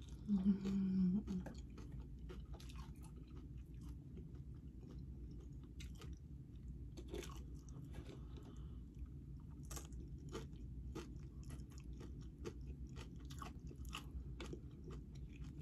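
Close-up chewing and crunching of tortilla chips from nachos, with many small crackly crunches. About half a second in there is a short hummed "mm".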